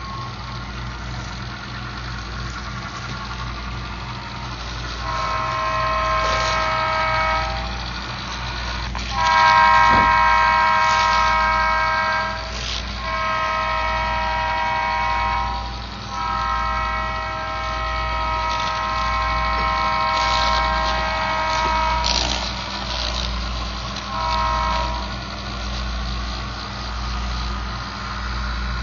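Train horn sounding a chord in five blasts: three of two to three seconds each, then one of about six seconds, then a short one near the end. A steady low engine rumble runs underneath.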